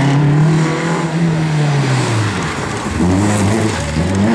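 Renault 5 slalom car's engine revving hard under load. Its pitch falls about two seconds in as the throttle is lifted, then climbs twice more as it accelerates again.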